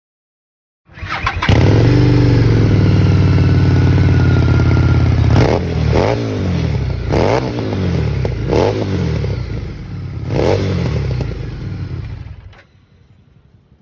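Harley-Davidson Street 750's V-twin engine on its original exhaust, starting up about a second in and idling steadily, then revved in about five quick throttle blips, each rising and falling in pitch. It cuts off sharply near the end.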